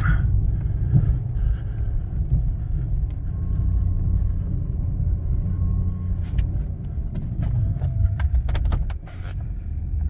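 Pickup truck driving and plowing snow, a steady low engine and road rumble heard from inside the cab. Several light clicks and knocks come in the last few seconds.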